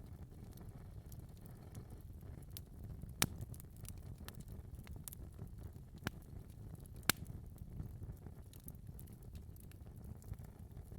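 Wood fire in a fireplace crackling, a low steady rumble of burning with scattered sharp pops, the loudest a little after three seconds in and again about seven seconds in.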